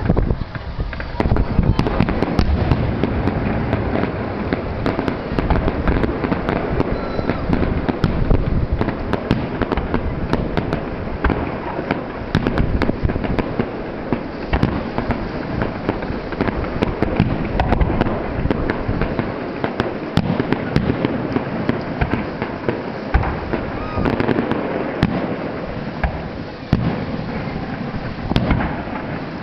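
Fireworks display: a dense, continuous barrage of shell bursts, bangs and crackling with a low rumble underneath, easing slightly near the end.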